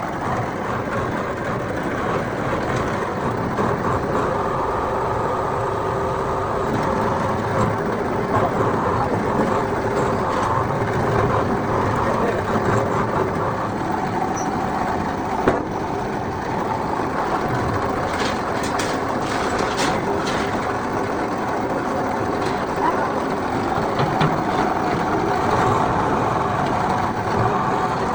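Steady din of workshop machinery: a constant mechanical hum with a few sharp clicks and knocks on top.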